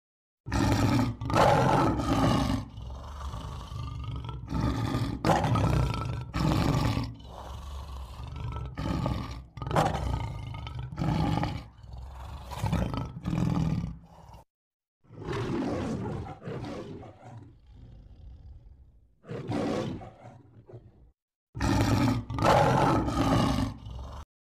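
Tiger roaring and growling: a long run of loud calls one after another, with two short breaks past the middle.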